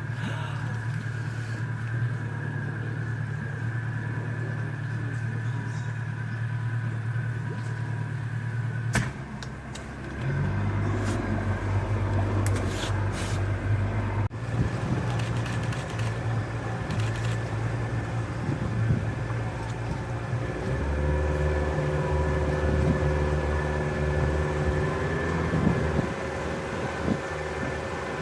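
Tour boat's motor running steadily, its hum dipping briefly and changing pitch about a third of the way in and shifting again about three quarters through.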